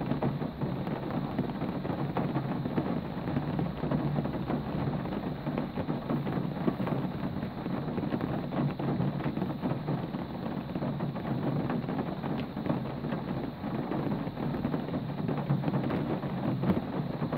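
Steady rain: a dense, even hiss full of fine drop patter, with a steady low rumble underneath.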